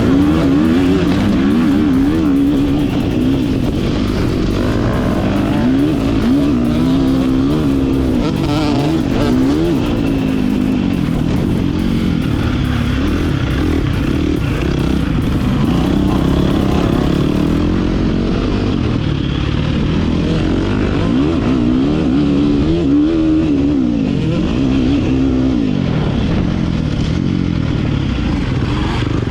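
Motocross dirt bike engine revving up and down over and over, its pitch climbing and dropping every second or two as the rider works the throttle and gears around the track.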